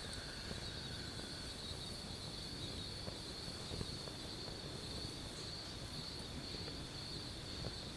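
Night insects, cricket-like, trilling in a steady high-pitched chorus over a low background hiss, with a few faint clicks.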